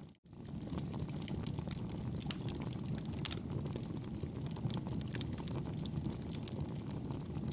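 Wood fire in a fireplace crackling and popping over a steady low rumble of the flames. The sound cuts out for a moment just after the start, then comes straight back.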